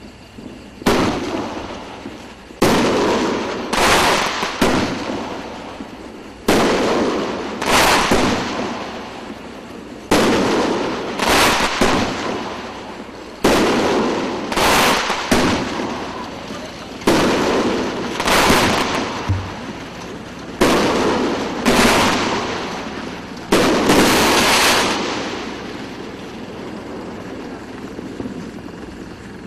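A 9-shot 3-inch aerial firework cake firing its shots one after another. Each shot is a launch thump followed by the bang of the shell bursting overhead, coming in groups of two or three sharp reports roughly every three and a half seconds, each fading over about a second. The firing stops about five seconds before the end.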